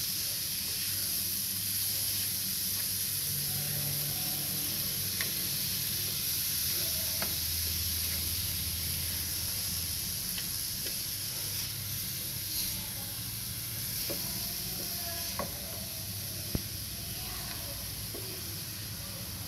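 Grated radish frying in spiced oil in a steel pan, sizzling steadily, with scattered clicks and scrapes of a spatula stirring it against the pan.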